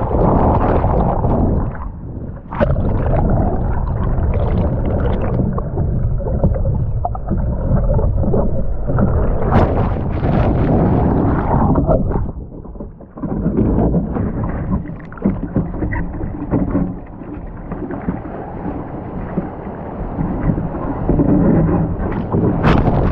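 Heavy wind and snow rushing over an action camera's microphone during freeride skiing, a continuous buffeting rumble. A few sharp knocks break through, the loudest about ten seconds in and just before the end, and the noise drops briefly about thirteen seconds in.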